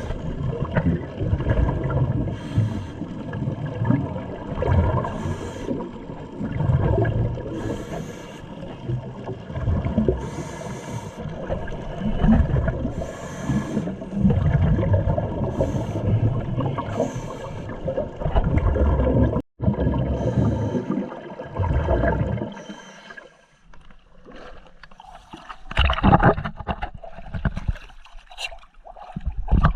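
Scuba diver breathing through a regulator underwater: a muffled rumble of bubbles with short hissing breaths every two to three seconds. It goes quieter for a few seconds near the end, then the breathing and bubbles pick up again.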